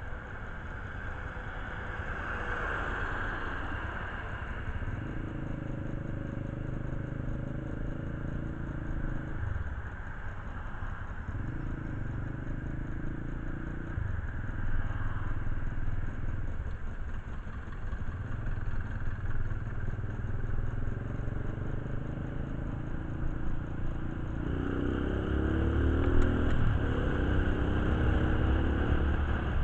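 Motorcycle engine running, with its note breaking off and returning a few times and rising in pitch several times near the end as it is revved.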